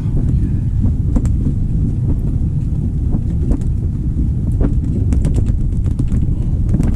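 Strong wind buffeting the microphone, a loud steady low rumble, with scattered light clicks.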